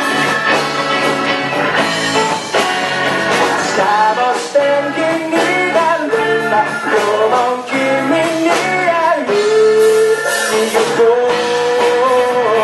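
Rock-style band music with singing and guitar, loud and continuous.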